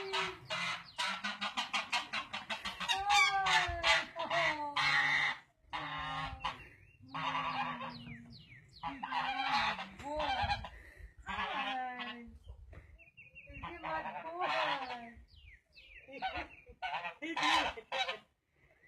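Pet parrot calling in a long run of harsh, honking squawks and chatter. The calls come one after another with short breaks, rising and falling in pitch.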